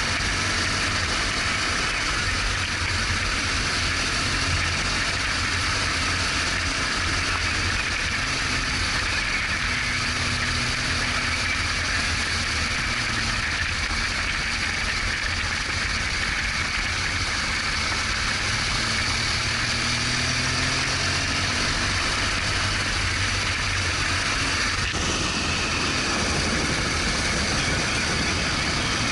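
BMW R1200GS Adventure's flat-twin engine running as the motorcycle is ridden, under steady wind and road noise, its pitch drifting slightly up and down.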